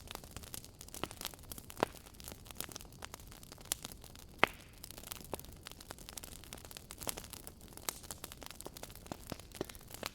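Wood fire crackling: irregular sharp pops and snaps over a steady hiss, the loudest pop about four and a half seconds in.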